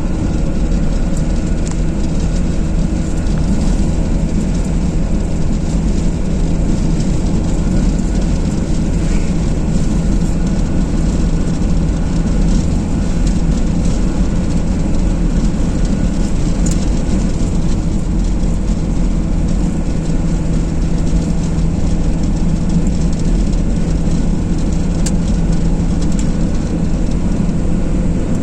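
Car driving at a steady speed on a motorway: continuous road and engine noise with a deep rumble and a steady hum.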